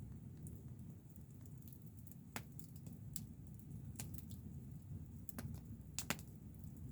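Campfire burning, with a handful of sharp, irregular crackles and pops over a low steady rumble.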